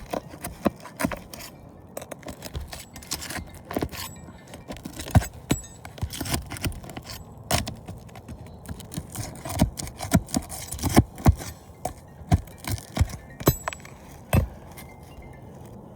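Snake bar prying at asphalt roof shingles to pull the roofing nails: irregular metal clicks, knocks and scraping, with a few louder knocks around the middle.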